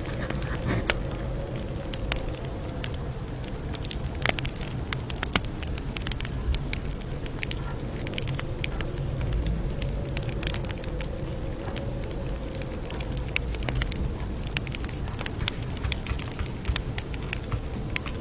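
Campfire crackling: wood popping and snapping in many sharp, irregular pops over a steady low rumble of the burning fire.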